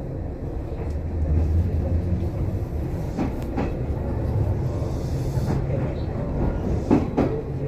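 Kintetsu electric train running on the rails, heard from aboard: a steady low rumble with a few sharp clicks from the wheels crossing rail joints.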